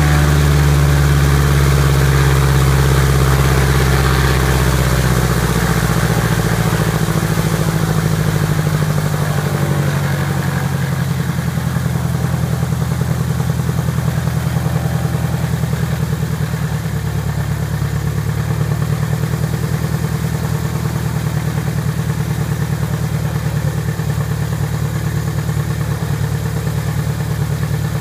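Piper Apache's piston aircraft engines being throttled back from run-up: the engine note falls over the first ten seconds or so, then settles into a steady idle with a regular beat, on a first ground run after a rebuild.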